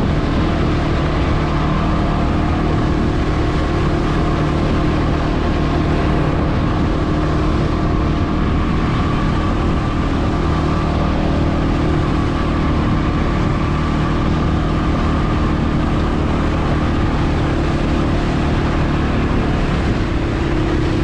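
CFmoto CForce 520 ATV's single-cylinder engine running at a steady, even note while riding, over a constant rush of noise.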